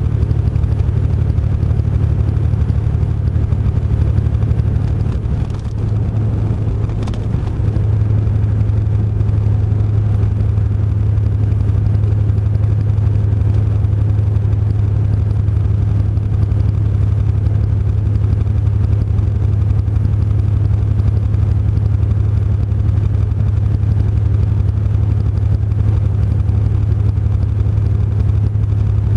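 Truck engine and road noise: a steady low drone that dips briefly about five to seven seconds in.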